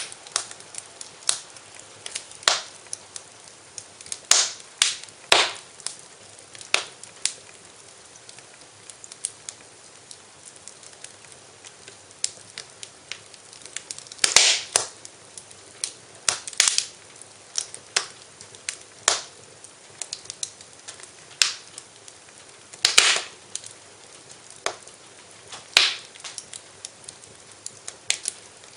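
Wood fire burning in a fireplace, crackling with irregular sharp pops and snaps over a faint steady hiss. A few louder pops come about halfway through and again later.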